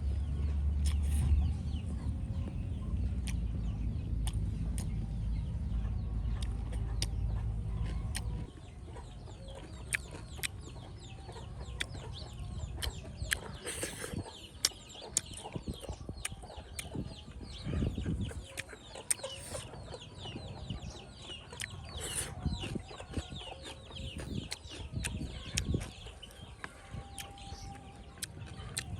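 Short bird calls, likely fowl, with scattered clicks and taps. A steady low hum runs under them and cuts off about eight seconds in.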